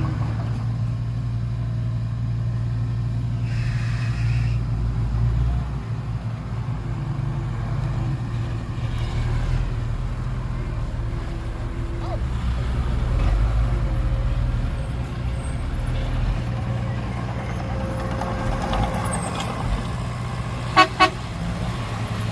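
Heavy diesel earthmoving machinery running steadily, with two short horn toots in quick succession near the end.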